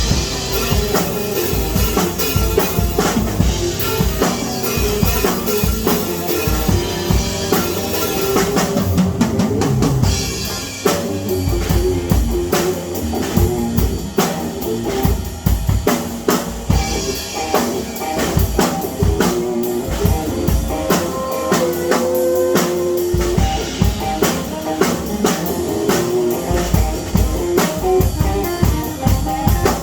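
Music played on a drum kit, with kick drum, snare and rimshots keeping a steady, busy beat over held pitched notes.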